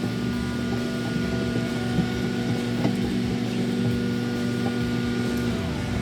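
Microwave oven running with a steady electrical hum. About five and a half seconds in, some of its tones slide down in pitch.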